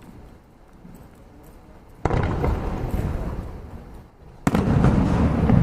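Two aerial fireworks shells bursting, about two and a half seconds apart, each a sudden bang followed by a long low rumbling echo; the second is louder.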